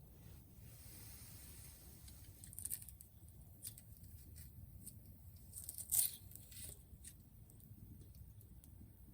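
Small wood fire crackling, with scattered sharp pops and ticks over a low steady rumble; the loudest pop comes about six seconds in.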